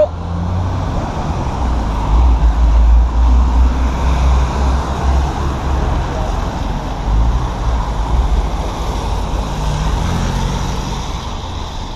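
Street traffic noise: a steady, uneven low rumble of passing and idling vehicles with a broad hiss of road noise.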